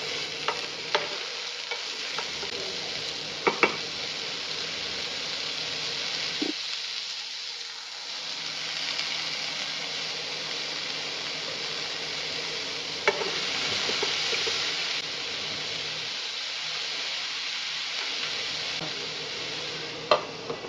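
Food sizzling as it fries in a pan, with a steady hiss that swells a little in the middle. A few sharp taps of a utensil against the pan come near the start, around three and a half seconds in, around thirteen seconds in and near the end, as the food is stirred.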